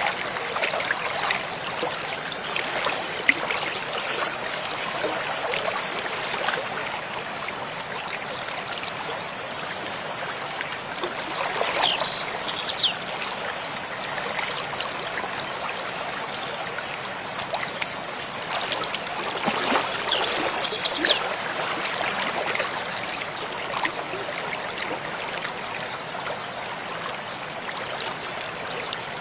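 Mountain stream flowing steadily. A bird sings two short, high trilled phrases over it, one near the middle and one later on.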